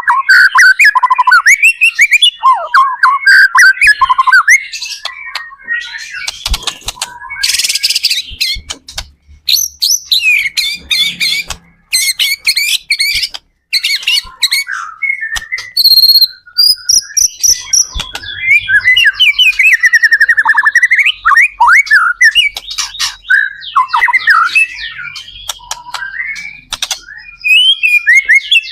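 White-rumped shama (murai batu) singing a loud, varied song: rapid whistled phrases and fast trills that slide up and down, broken by short harsh, scratchy notes and brief pauses.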